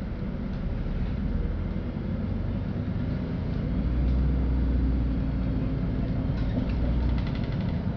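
LiAZ-5292.65 city bus under way, heard from inside the passenger cabin: a steady low engine and drivetrain rumble with road noise, growing louder about four seconds in. Faint rapid ticking or rattling comes in briefly near the end.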